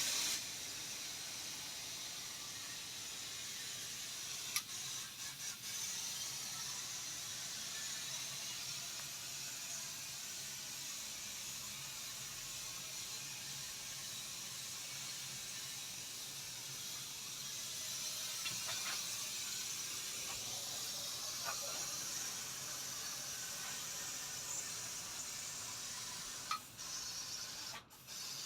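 Paint sprayer hissing steadily as it sprays paint onto a canvas. The hiss breaks up and cuts off in the last couple of seconds.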